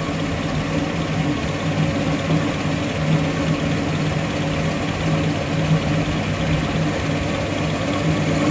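An engine running steadily at idle, with an even, unchanging pitch.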